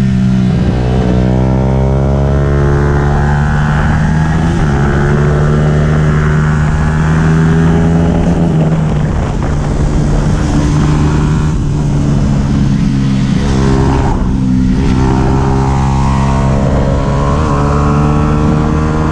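Yamaha YZF-R125's single-cylinder 125 cc four-stroke engine pulling hard around a track, heard onboard over wind rush. The revs rise and fall several times with gear changes and corners, dropping away about two-thirds of the way through and then climbing again near the end.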